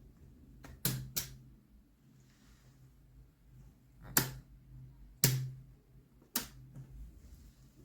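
Five sharp clicks at uneven intervals: two close together about a second in, then three more, the loudest two about four and five seconds in.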